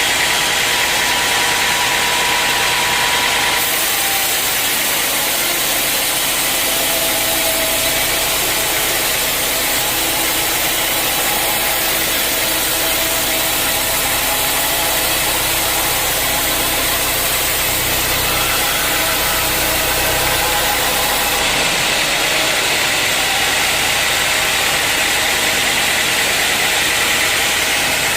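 Sawmill running steadily while sawing dry teak. A louder hiss and a deeper rumble come in a few seconds in and drop back about three-quarters of the way through.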